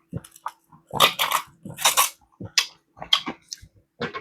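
Close-up eating sounds: a run of crunchy bites and chewing, loudest about one and two seconds in.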